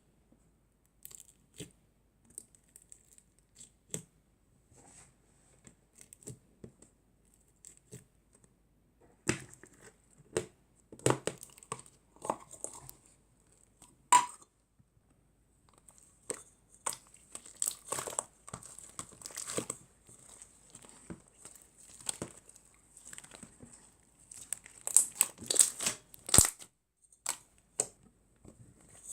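Plastic packaging being crinkled and torn by hand in irregular bursts, with a sharp snap about halfway through and a busier, louder stretch near the end.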